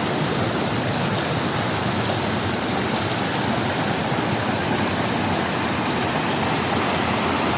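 Stream water rushing over small cascades, a steady even rush.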